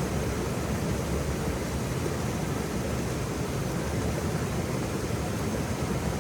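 Waterfall: a steady rush of falling water, heaviest in the low end, with no breaks or single splashes.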